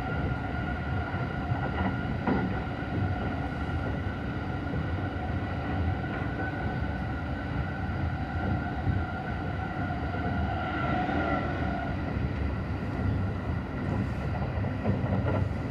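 Cabin noise of an E235-1000 series electric train running on the rails: a steady low rumble with several faint, steady whining tones from the train's traction equipment.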